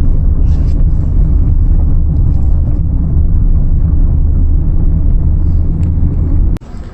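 Loud, steady low rumble of a moving vehicle, cutting off suddenly near the end.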